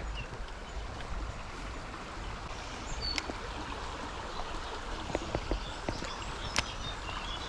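Shallow river running over rapids: a steady rush of water, with a few small clicks and knocks about two-thirds of the way in.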